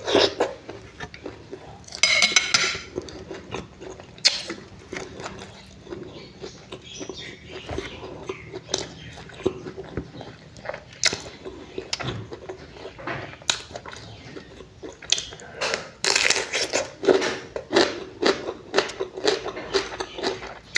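A person eating fish roe up close: chewing and smacking, with many short sharp clicks and a louder burst about two seconds in, plus occasional clinks of utensils on a dish.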